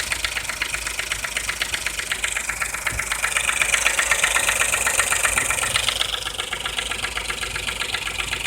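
Suzuki K6A three-cylinder engine idling warm, with a fast, even ticking knock over the running. The owner takes the knock for a worn No. 3 hydraulic timing-chain tensioner.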